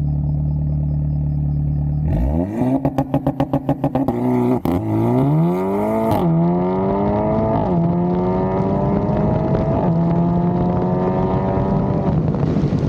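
Audi S3's turbocharged four-cylinder through a new aftermarket cat-back exhaust: idling, then brought up to launch revs and held there with a fast pulsing, then launching and accelerating hard, the pitch climbing and dropping at three upshifts.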